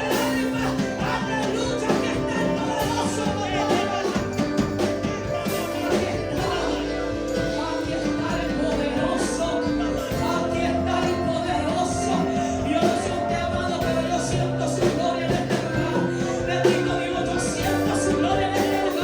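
Upbeat gospel music from a band with drums, with a voice singing a Pentecostal worship chorus.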